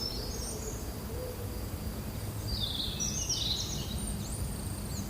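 Birds chirping and twittering in short, high calls, some sliding in pitch, over a steady low outdoor hum.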